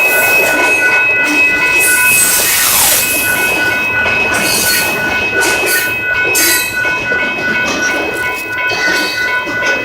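Union Pacific train rolling past, its wheels squealing in several thin steady high tones that come and go, over the rush and clatter of the cars on the rails.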